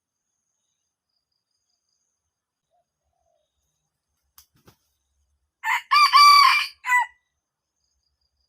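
A male red junglefowl crowing once, loud and close: a short crow of about a second and a half in three parts, with a brief opening note, a longer main note and a clipped final note. Two faint clicks come just before it.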